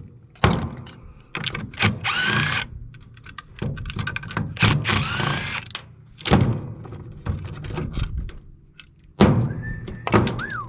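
Metal knocking and clanking from dismantling an air conditioning unit for scrap, with two longer metallic screeches at about two and five seconds in and a short squeal near the end.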